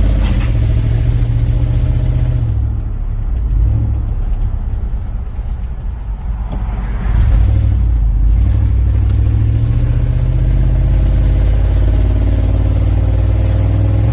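Toyota Sequoia's 5.7-litre V8 running loud through an exhaust with one muffler removed, while the truck is under way. The throttle eases off a few seconds in, then opens up again about seven seconds in and holds.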